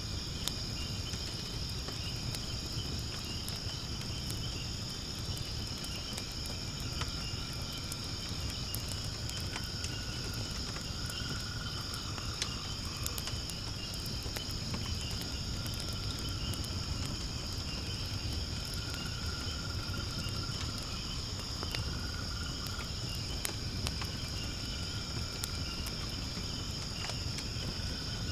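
Wood fire burning in a fire pit, with scattered sharp crackles and pops over a low rumble, against a steady high-pitched insect chorus.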